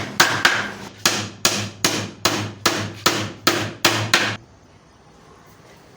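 Steady hammering on wood, about two and a half blows a second, stopping about four seconds in.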